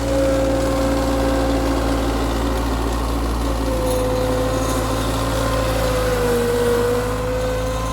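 Tractor engine running steadily while plowing snow, its pitch sagging slightly near the end.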